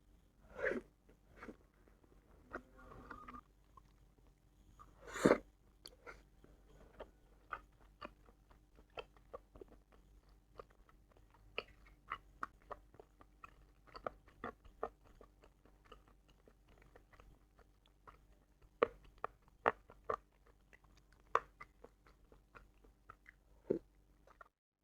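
Close-miked eating sounds from a bowl of spicy bakso aci: chewing and biting with many short, wet mouth clicks, the loudest bite about five seconds in.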